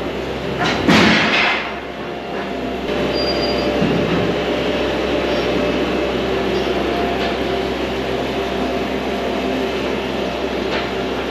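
An engine running steadily, with a loud rush of noise about a second in.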